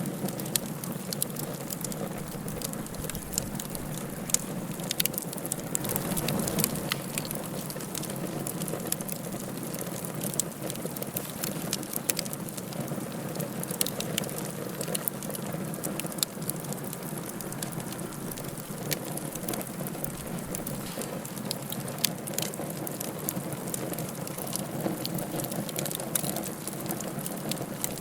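Wood fire crackling in a fireplace: a steady hiss and rustle with many sharp pops and snaps scattered throughout.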